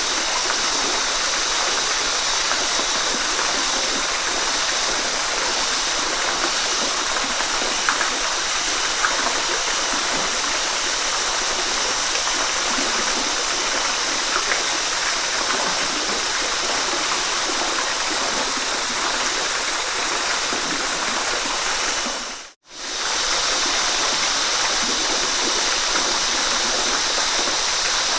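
Waterfall: a steady rush of falling water that fades out and straight back in once, for under a second, about three-quarters of the way through.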